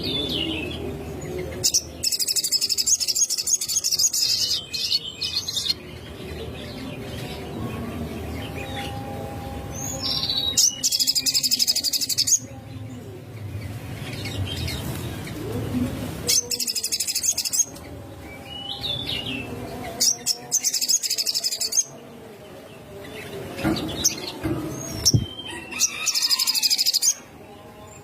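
Small songbird singing in repeated bouts of high, rapid trilling, about five bursts of one to three seconds each, with short lower chirps in between.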